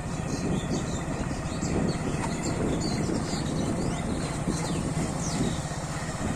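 Motorcycle engine running steadily under way, a low rumble with short high chirps scattered over it.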